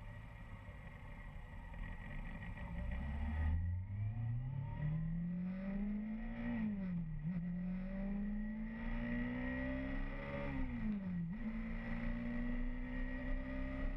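Motorcycle engine pulling away and accelerating, its pitch climbing steadily and dropping sharply at two upshifts, about halfway through and again some four seconds later.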